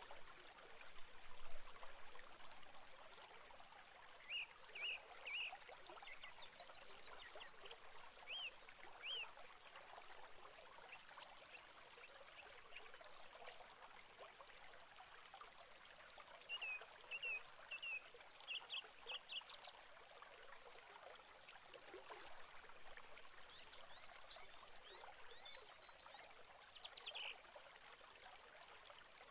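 Faint, steady crackling hiss in a great tit nest box, with short high bird chirps in small groups of two or three, several times.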